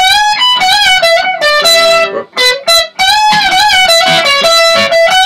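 Electric guitar playing a lead solo phrase of sustained notes bent up in pitch and held with vibrato. There is a short break a little past two seconds in, then the phrase repeats.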